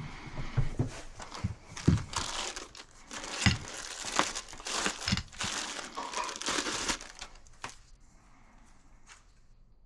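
Irregular crinkling and rustling of something being handled, with several sharp knocks mixed in; it stops about seven seconds in.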